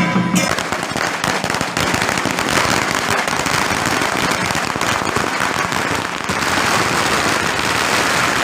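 A long string of firecrackers going off in a continuous rapid crackle. Music cuts off just as it starts.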